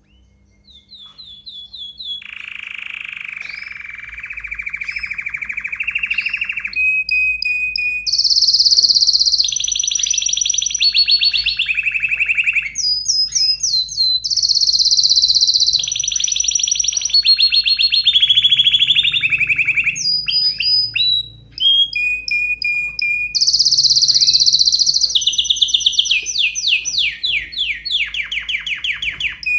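Domestic canary in full, excited song. It sings a long unbroken run of trilled tours, each a single note repeated rapidly for a second or more, switching between low rolling trills and high whistled ones.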